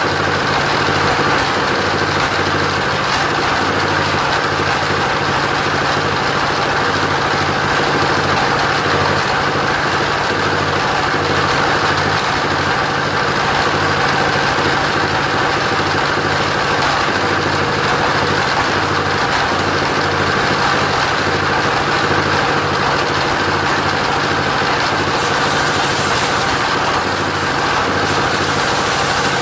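Sawmill engine running steadily at constant speed, with a continuous mechanical hum and no breaks.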